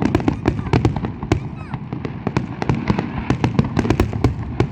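Fireworks going off in a rapid, continuous barrage: many sharp bangs and crackles, several a second, over a deep rumble.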